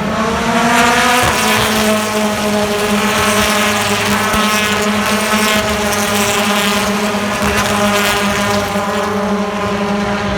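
BTCC touring car's turbocharged two-litre four-cylinder engine running hard under acceleration, its pitch climbing slowly, with a quick gear change about a second in.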